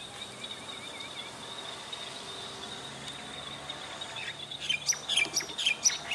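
Birds chirping, a quick run of short high calls that starts about four and a half seconds in and is the loudest sound, over a steady high buzz of insects.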